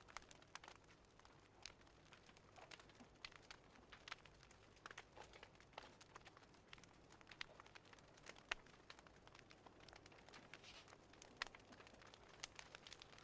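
Faint fireplace fire crackling, with scattered irregular sharp pops and snaps over a soft hiss.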